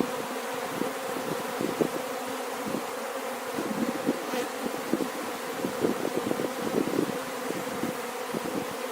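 Honeybees swarming around an opened hive: a dense, steady buzz with many individual bees flying close past.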